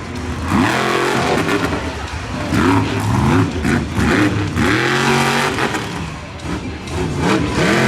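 Jurassic Attack monster truck's engine revving hard again and again, its pitch climbing and dropping in several surges, as the truck starts its freestyle run.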